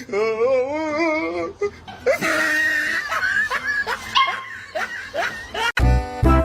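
A high, wavering vocal sound, then a person laughing in breathy bursts. Music cuts in near the end.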